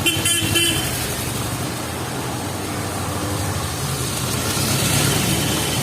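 Street traffic: a motor vehicle's engine running close by with a steady low hum, with a brief noisy burst right at the start and a swell of passing-traffic noise near the end.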